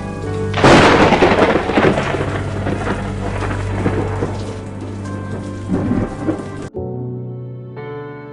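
A thunderclap breaks out about half a second in and rumbles on, fading over several seconds, over steady rain, with soft sustained music underneath. Near the end the rain and thunder cut off abruptly, leaving only the gentle music.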